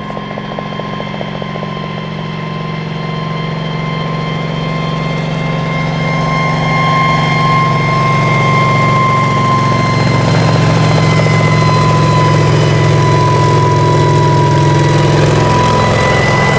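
Kamov Ka-26 helicopter with twin radial piston engines and coaxial rotors, growing louder over the first half as it nears and then running steadily loud. A high engine whine sinks slowly in pitch throughout.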